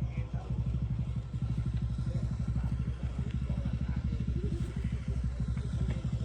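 Honda XR150L motorcycle's single-cylinder engine running steadily, with an even rapid firing pulse.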